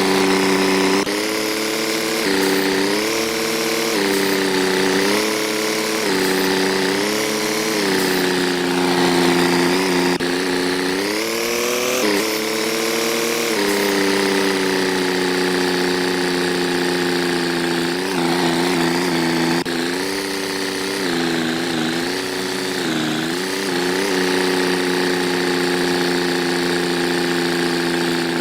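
An engine running, its speed rising and falling over and over, settling to a steadier pitch about halfway through before wavering again.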